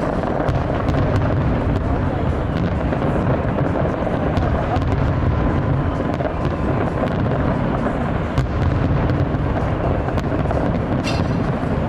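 Dense crowd of voices with fireworks popping and crackling in the distance.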